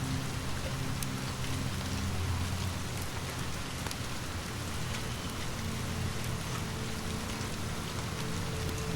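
Steady rain falling on a surface, with a few faint crackles from a wood fire and a low steady drone underneath.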